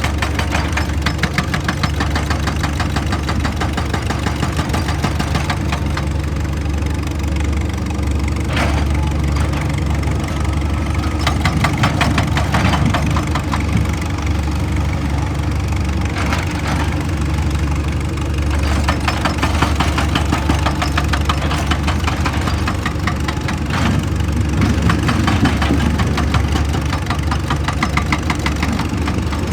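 Heavy diesel engine of an excavator running steadily, with a fast, dense knocking over the engine note.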